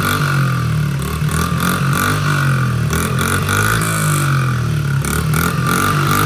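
Honda CRF50's small single-cylinder four-stroke engine revved up and down over and over, the pitch repeatedly climbing and dropping back.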